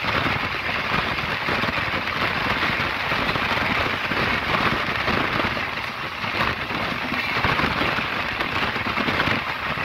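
Steady rushing noise of an express passenger train running at speed, heard at an open window: wheels rolling on the rails mixed with air rushing past and buffeting the microphone.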